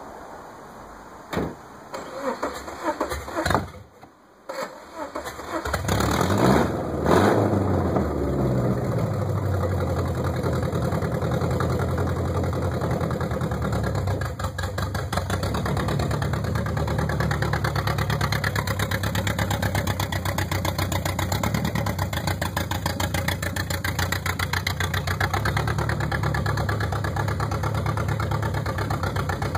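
Subaru Forester's flat-four boxer engine, run with no exhaust system, cranked over and started with a couple of quick revs, then running loud and steady with a deep, raw rumble straight from the engine.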